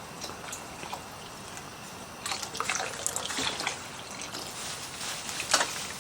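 Liquid splashing and dripping with small clicks and clatters over a steady hiss: a busy spell about two seconds in and one sharper splash near the end.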